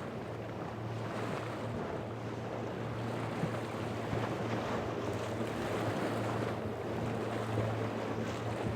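Boat engine running steadily with a low hum, over the wash of waves and wind buffeting the microphone.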